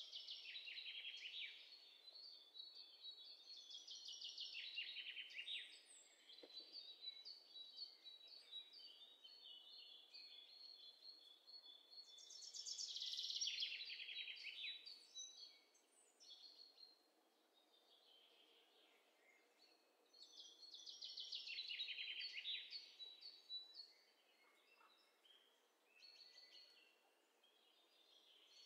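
Faint birdsong: fast trilled phrases that slide downward in pitch, each lasting a couple of seconds and returning every several seconds, with quieter chirps between.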